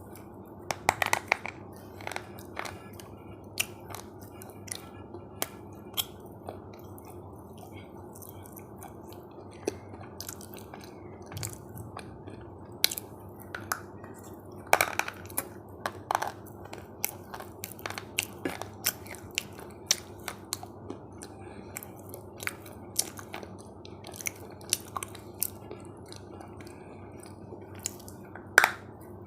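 Close-miked eating: irregular crunchy bites and chewing, with sharp cracks every second or so over a steady low background hiss.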